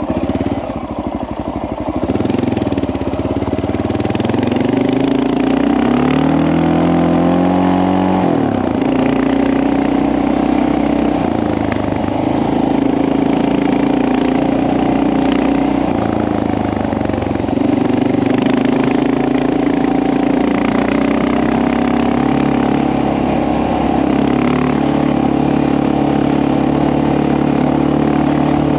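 Honda XR650L's single-cylinder engine running under way, its pitch climbing for several seconds, dropping sharply about eight seconds in, then holding fairly steady with small rises and falls.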